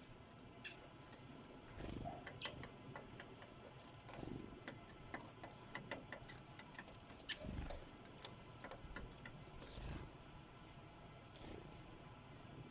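Faint, irregular quick taps and clicks of sparrows' beaks pecking seed on a bird feeder, with a few soft thuds in between.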